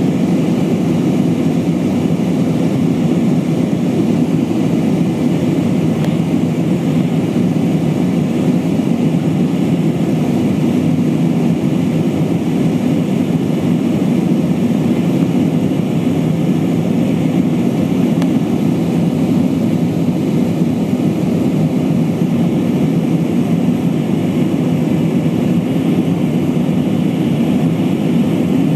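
Steady jet engine and airflow rumble heard inside the cabin of an Airbus A320-232 with IAE V2500 turbofans, even and unchanging throughout, with a faint high steady whine above it.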